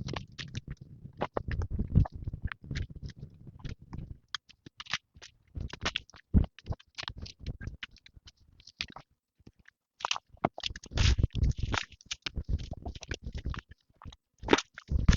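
Irregular clicks, knocks and scraping from hands-on work, with a short quiet gap about nine seconds in.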